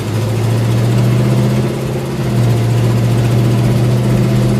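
1968 Plymouth Road Runner's V8 engine running as the car drives at low speed, its note stepping up at the start and strengthening a little about two and a half seconds in.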